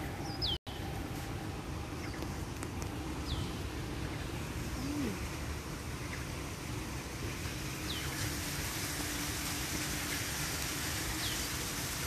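A bird gives short, high, falling whistles, one every few seconds, over a steady outdoor background hum. The sound drops out completely for a moment about half a second in.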